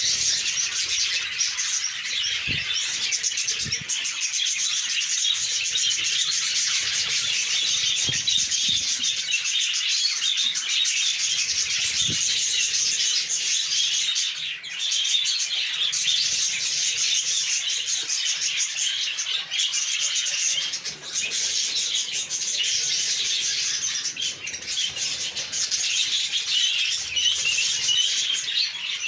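Many small pet-shop birds chirping together in a dense, unbroken chatter, with a few faint low knocks now and then.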